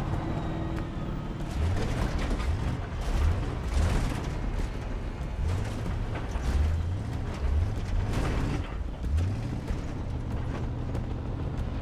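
Pickup truck driving hard across a rough field: the engine revs up again and again while the cab rattles, creaks and knocks over the bumps.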